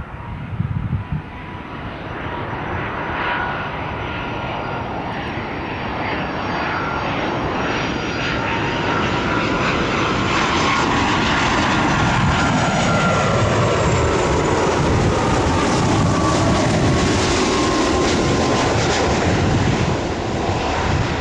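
Airliner's engines passing by, growing louder and then holding, with a thin fan whine that slides slowly down in pitch as the aircraft goes past.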